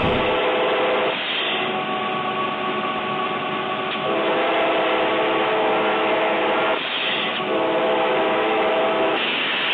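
Train horn sounding in long held blasts, its chord stepping between two pitch sets every few seconds, over steady train noise.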